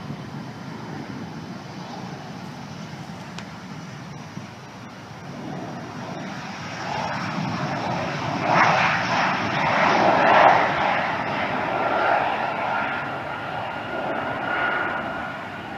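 Jet airliner passing, its engine noise swelling to a peak about ten seconds in and then easing, with a steady high whine in the later part.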